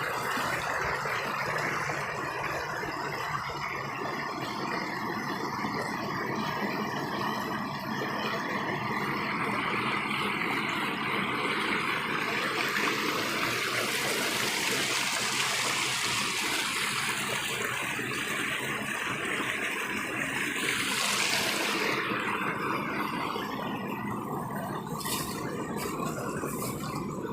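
Stream water rushing steadily over rocks, with a brief louder whoosh a little over two-thirds of the way in and a few faint clicks near the end.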